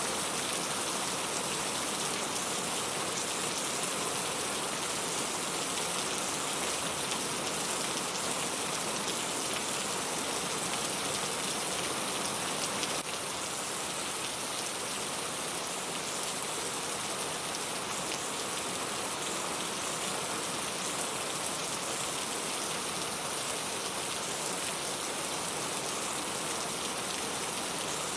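Steady rain falling, a dense, even hiss of drops on a surface, dropping slightly in level about halfway through.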